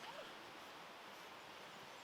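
Faint, steady outdoor background hiss, with a brief faint chirp-like sound just after the start.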